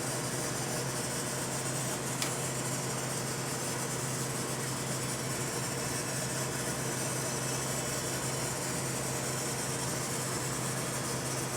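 Microwave oven running, with a steady low hum and a fan hiss while the mango cooks. There is a single short click about two seconds in.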